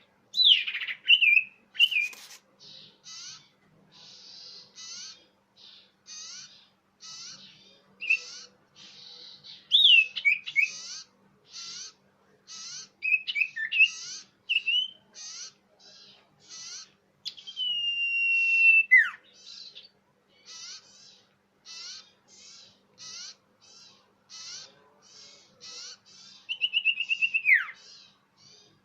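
Common iora (cipoh) song from a bird-lure recording: a steady series of short scratchy notes about twice a second, with louder clear whistles over them. These include slurred notes, a long held whistle that drops sharply at its end, and near the end a fast trill that slides down.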